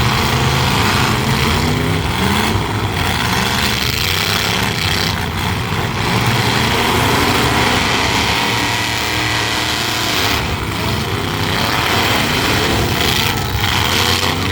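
Several truck engines running loud at once, revving up and down at varying speeds.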